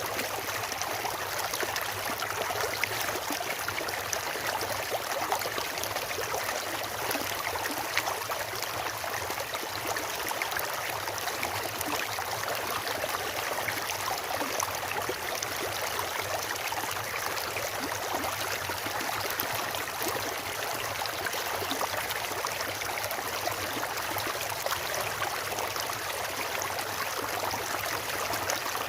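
Water of a fast stream or river rushing and splashing over rocks, a steady full-bodied rush with small splashes throughout.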